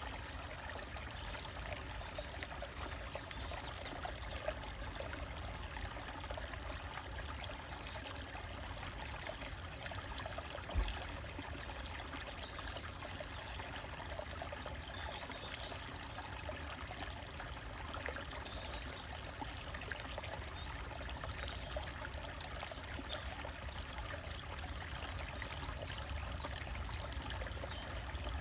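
Small stream trickling and splashing over rocks, steady throughout, with faint bird chirps at several points and a single brief thump a little under halfway through.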